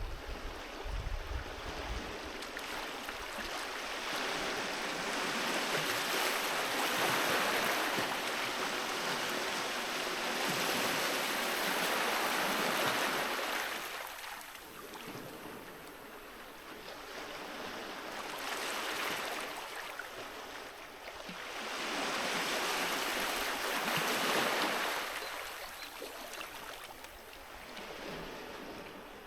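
Sea waves breaking and washing up a beach, the surf swelling and fading three times. A brief low rumble comes in the first second.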